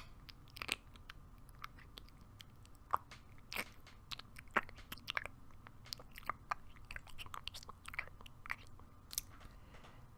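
Close-miked human mouth noises: quiet, irregular chewing with scattered wet clicks, made by a person imitating a sheep digesting grass.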